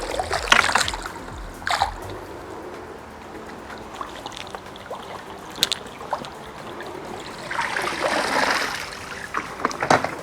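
Water splashing and trickling as a cordless robotic pool cleaner is hauled up out of the pool on a pole hook. A few short splashes come first, then a longer rush of water pouring off the cleaner about three-quarters of the way through.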